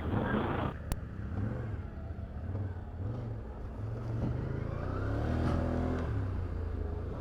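Can-Am Outlander 850 ATV's V-twin engine running on a trail. A short noisy rush comes at the start as it goes through a mud hole, then the engine revs up and falls back off about two-thirds of the way through.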